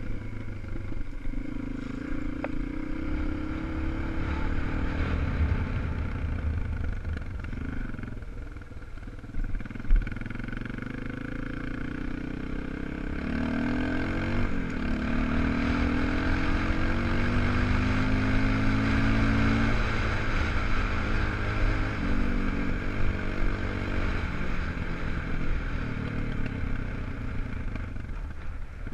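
250 cc single-cylinder four-stroke enduro motorcycle engine being ridden, its pitch rising and falling as the throttle is opened and closed through the gears. There is a single sharp knock about ten seconds in.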